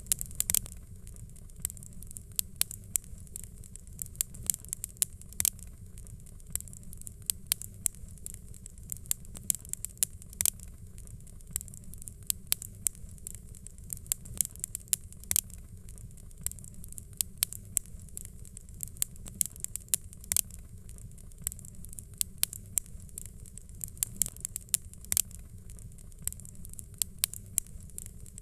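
Fireplace fire crackling: frequent, irregular sharp pops and snaps over a steady low rumble.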